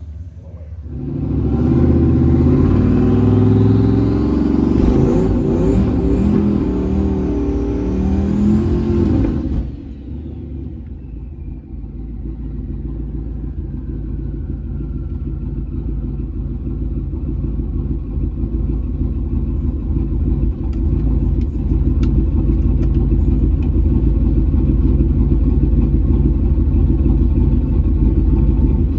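A car's engine at full throttle making a pass down a drag strip, its pitch sweeping up and down for about eight seconds before cutting off abruptly. After that comes the low, steady rumble of the turbocharged LS V8 in a Chevrolet Malibu wagon, heard from inside the cabin and slowly growing louder.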